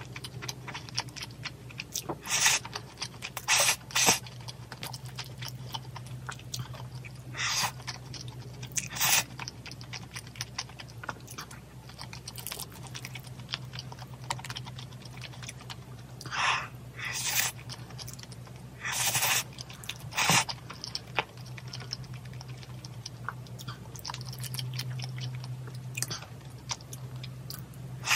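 Close-up eating sounds of a person eating rosé braised chicken with glass noodles: chewing, broken by about nine short, louder bursts of mouth and food noise in three clusters. A steady low hum runs underneath.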